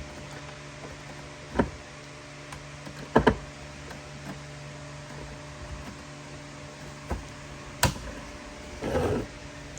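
A few separate sharp knocks and clicks, one of them doubled, over a steady hum, with a rougher scraping burst near the end.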